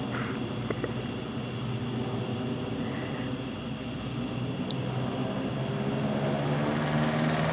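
Truck engine running at a steady idle, with a constant high-pitched whine over it.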